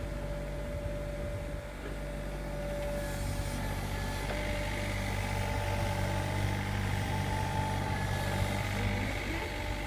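Sany SY35U mini excavator's diesel engine running steadily with a steady whine over its low hum, getting a little louder about three seconds in.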